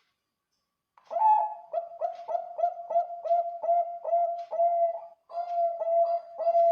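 Zebra dove (Bangkok-strain perkutut) singing: after about a second of quiet, a fast run of short cooing notes, about three a second, with a brief pause about five seconds in before the run carries on.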